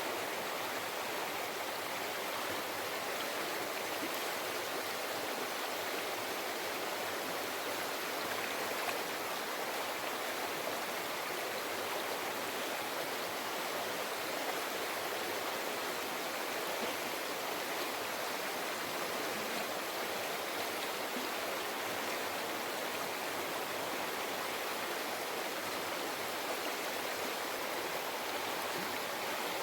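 Mountain river flowing over rocks: a steady rushing and babbling of water.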